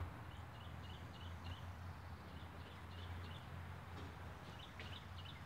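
Small birds chirping over and over, short high calls several times a second, over a steady low hum.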